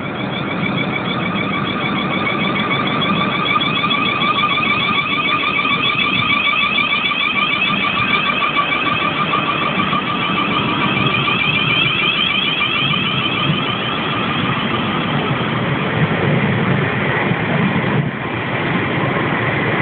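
Class 444 Desiro electric multiple unit pulling away: a warbling high electrical whine from its traction equipment over the low rumble of the moving train. The whine fades out near the end while the rumble carries on.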